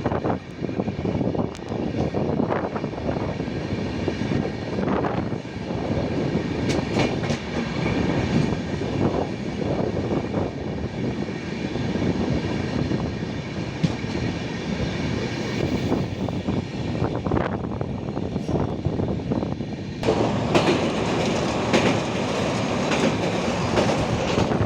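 A moving passenger train running along the line: continuous rumble of wheels on track with scattered clicks and knocks, the noise growing louder and brighter about twenty seconds in.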